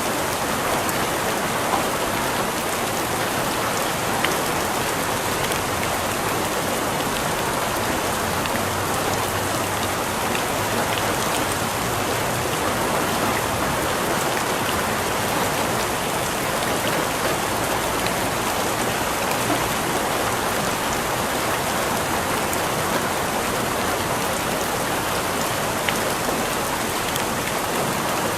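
Steady rain falling and pattering on a surface, an even hiss with a few sharper drops standing out now and then.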